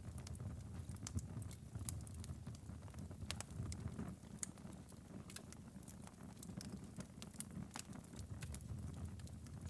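Wood fire crackling in a fireplace: frequent small sharp pops and snaps over a low steady rumble of burning logs.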